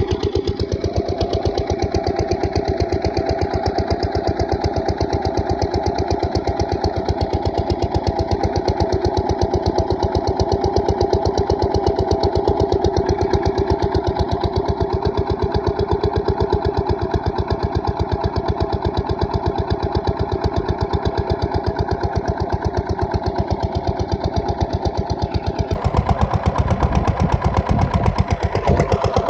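8 HP diesel engine of an irrigation water pumpset running steadily with a rapid, even thudding of firing strokes. About 26 s in it grows louder and harsher.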